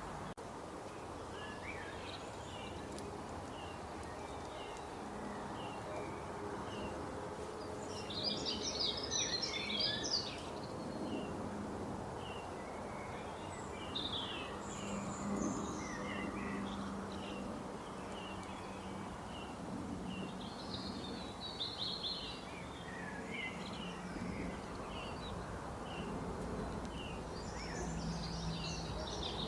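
Birds calling: a steady run of short, repeated high chirps, with several bursts of busier, louder song, over an even background hiss.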